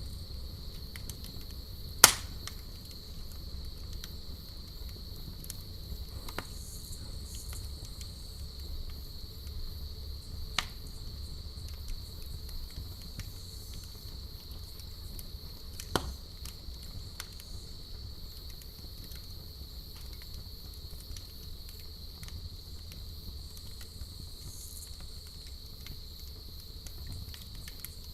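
Campfire burning with a low rumble and small crackles, and four sharper pops, the loudest about two seconds in. A steady high cricket trill sounds behind it.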